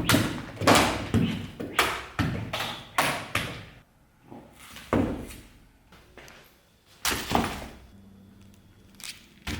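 A series of dull knocks and thuds, each with a short ring after it, coming about twice a second at first and then only a few more, spaced apart, in the second half.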